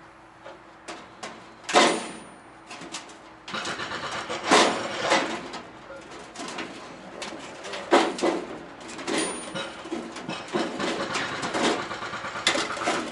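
Steel mounting plate and bracket clanking and scraping as they are worked into place by hand, with several sharp metal knocks, the loudest about two seconds in and again about eight seconds in.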